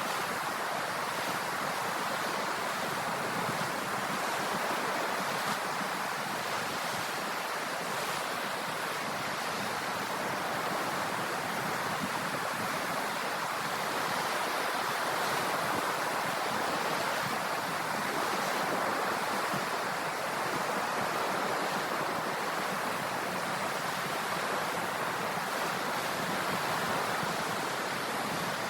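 Sea waves washing in as a steady surf hiss, swelling and easing gently.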